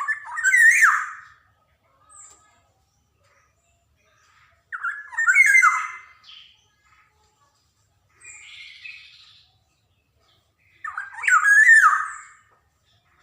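Black-naped oriole (kepodang) calling: three loud calls about five seconds apart, each around a second and a half long, with a fainter call between the second and third.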